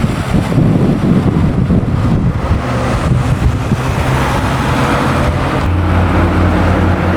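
Classic car engine running at low, steady revs, its note getting stronger near the end. Wind rumbles on the microphone in the first couple of seconds.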